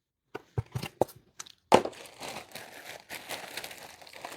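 Items being handled: a few sharp clicks and knocks, then a louder knock just before two seconds in followed by steady crinkling and rustling of plastic packaging.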